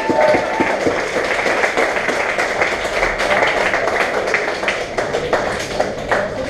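Audience clapping at the end of a live song, as the band's last notes die away in the first half second.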